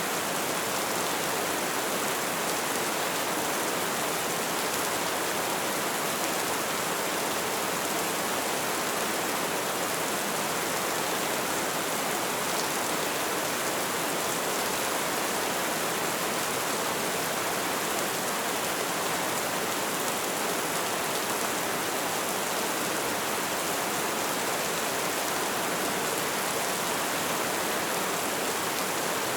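Light rain falling steadily, a dense even hiss of drops with no let-up or change.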